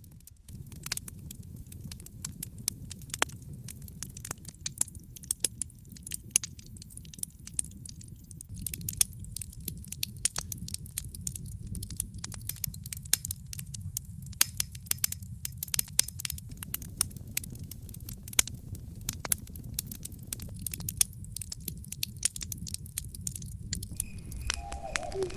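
Wood campfire crackling, with sharp irregular pops and snaps over a low, steady rush of burning.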